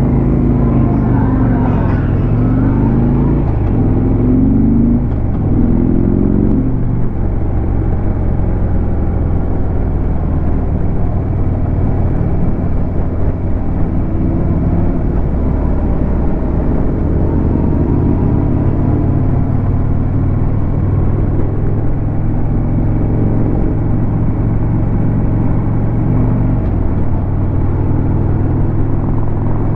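Harley-Davidson Road King's V-twin engine running at road speed under a steady rush of wind. Its pitch rises and falls a few times in the first several seconds, then holds steady.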